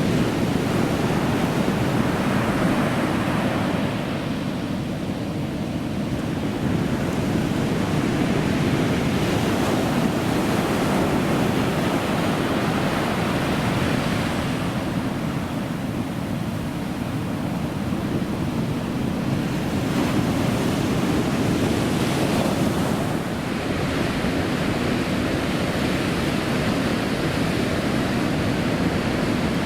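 Ocean surf, a steady wash of breaking waves that swells and eases every several seconds, with wind on the microphone.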